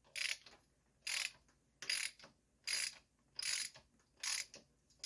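Socket ratchet wrench with a 10 mm socket clicking in short runs on each back-stroke as an outboard's oil drain plug is loosened: about six runs, a little under a second apart.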